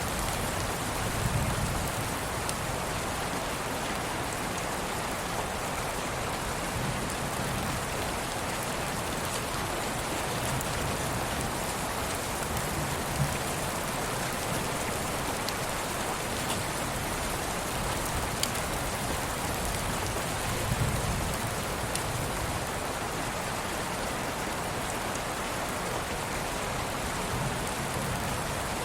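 Steady rain: a dense, even hiss with scattered small drop ticks, and a soft low swell now and then.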